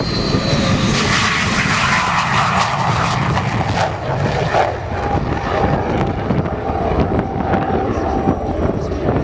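MiG-17 jet fighter's turbojet engine at high power as the jet goes by: a loud rushing noise that sweeps down in pitch over the first few seconds, then a steadier noise with a faint thin whine.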